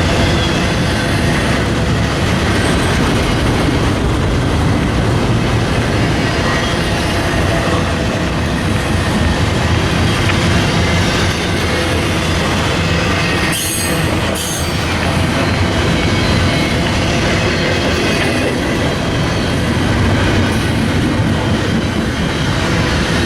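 Train cars rolling past close by: a steady, loud rumble of steel wheels on rail with clickety-clack and some wheel squeal. The sound dips briefly about 14 seconds in.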